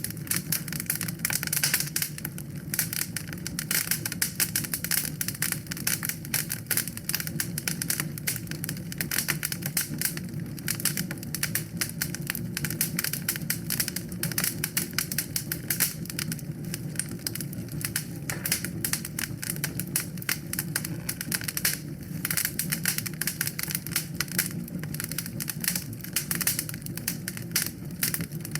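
Wood fire burning in a fireplace: a dense, steady crackling of many small sharp pops over a low rumble of the flames.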